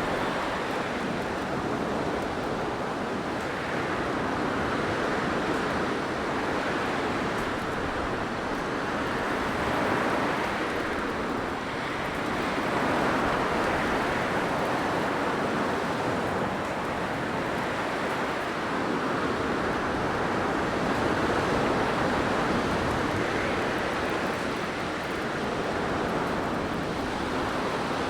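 Blizzard wind: a steady rushing howl of wind-driven snow that swells and eases slowly every few seconds, with no distinct events.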